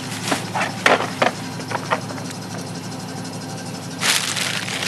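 Scrap being handled: several short knocks and clanks in the first two seconds, then a scraping rustle about four seconds in, over a steady low hum.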